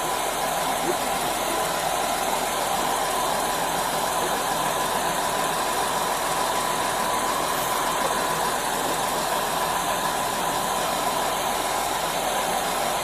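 Steady vehicle engine idling: a constant hum with hiss that stays even throughout.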